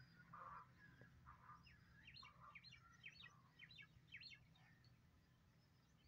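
Faint calls of small birds: a few short calls in the first second or so, then a quick run of high chirps, each dropping in pitch, about three or four a second, from about two seconds in to past four. A faint steady low hum lies underneath.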